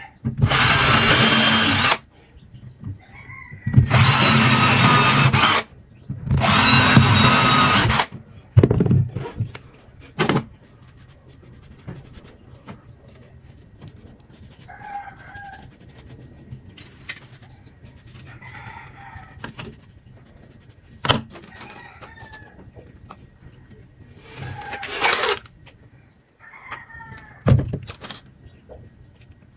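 Electric drill running in three bursts of about two seconds each, followed by scattered knocks and clicks of parts being handled. Chickens cluck intermittently in the background in the second half.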